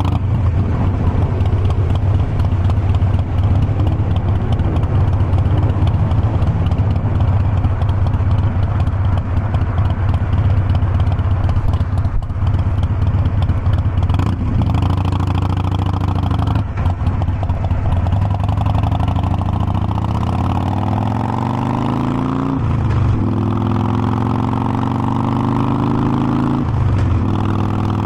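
Harley-Davidson Forty-Eight Sportster's air-cooled V-twin running under way, steady at first, then climbing in pitch as the bike accelerates, with the pitch dropping back at two upshifts near the end.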